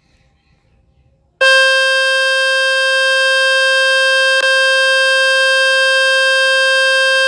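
Loud steady buzzing tone from a speaker-cleaning website, played through a Samsung Galaxy A13's speaker to shake dust and water out of it; it starts about a second and a half in and holds one pitch, with a brief hiccup about halfway.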